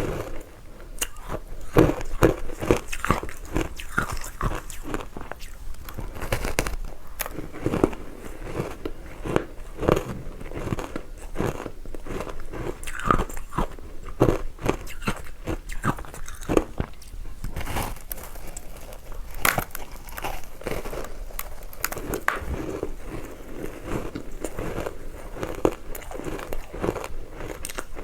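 Close-up biting and chewing of matcha-powdered ice: a dense run of crisp, irregular crunches, one after another.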